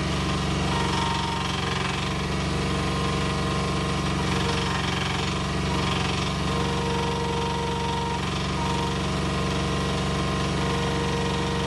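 Mini excavator's single-cylinder Koop 195 diesel running steadily under hydraulic load during an operating test. A higher whine keeps starting and stopping over it as the hydraulic functions are worked.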